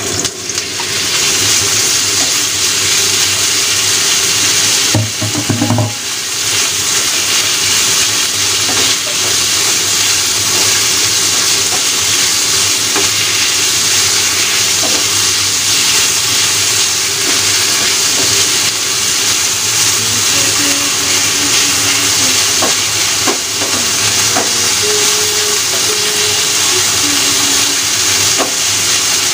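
Marinated beef slices sizzling loudly in a hot frying pan as they are tipped in and stir-fried, the sizzle coming up as the meat goes in and holding steady. A wooden spatula scrapes and knocks against the pan now and then.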